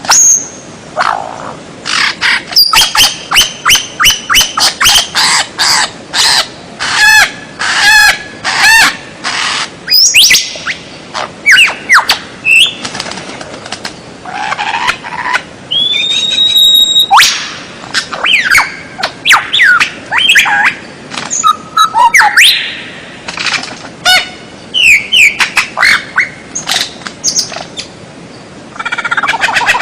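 White-rumped shama singing a long, varied song: loud whistled notes, rising and falling sweeps and quick runs of repeated notes, with a short held whistle about halfway through.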